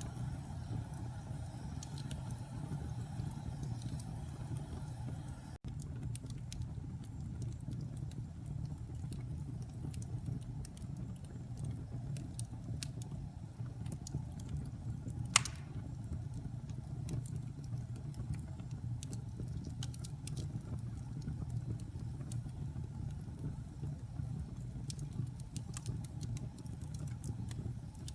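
Wood fire burning in a fireplace: a steady low rumble with scattered faint crackles, and one sharp, louder pop about halfway through. The sound cuts out for an instant about five seconds in.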